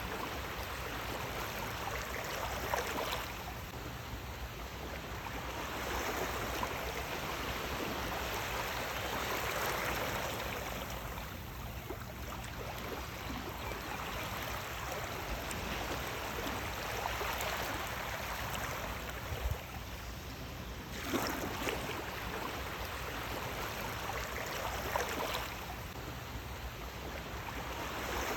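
Sea waves washing in: a steady rush of water that swells and falls back every few seconds.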